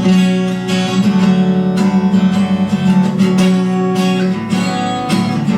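Acoustic guitar strumming sustained chords, about two strums a second.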